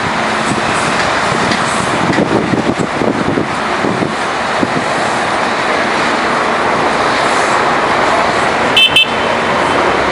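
CPTM Series 7000 electric commuter train passing at speed, a steady rush of wheels on rails and running gear with a few clacks in the first four seconds. About nine seconds in come two short, high beeps.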